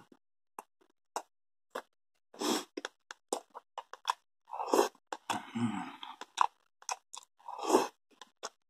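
Close-up chewing and lip-smacking of a person eating creamy instant pasta carbonara off a metal spoon, with scattered small clicks of the spoon against the cup. A few louder, longer mouth noises come about two and a half, five and near eight seconds in.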